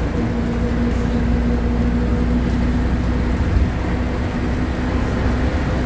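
Diesel engine of a Mercedes-Benz OF-1519 BlueTec 5 bus running at a steady speed: a constant low rumble with a steady hum over it that neither rises nor falls.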